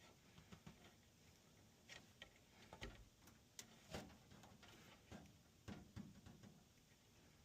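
Near silence with faint, scattered clicks and light taps at irregular intervals.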